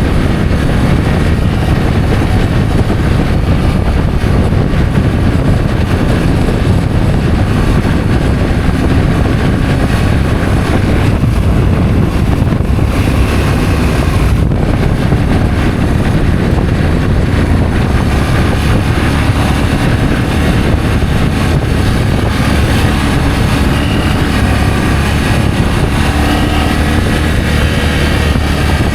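Adventure motorcycle being ridden at a steady pace: the engine runs continuously under heavy wind noise rushing over the microphone.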